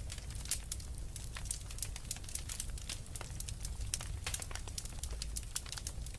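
Wood fire burning in a fireplace: dense, irregular crackles and pops over a low, steady rumble of the flames.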